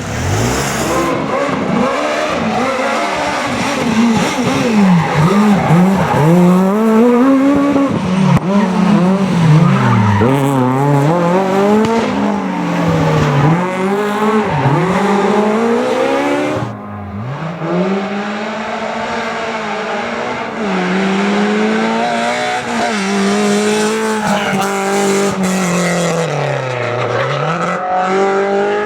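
Rally car engines revved hard, the pitch climbing and dropping again and again through gear changes and lifts, with tyre noise as the cars slide through corners. The sound breaks off abruptly about two-thirds of the way through and picks up again.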